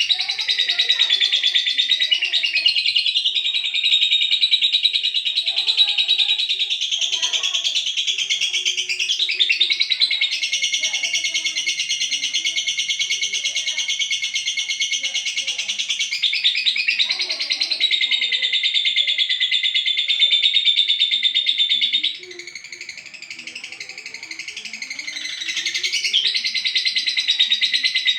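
Olive lovebird singing a long, unbroken high-pitched trill. It holds it for about twenty seconds, drops to a softer chatter, and picks the full trill up again near the end.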